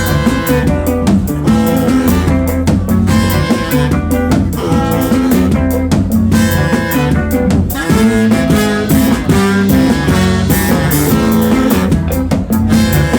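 A band playing live: a drum kit keeping time under guitar, with held pitched notes over the top.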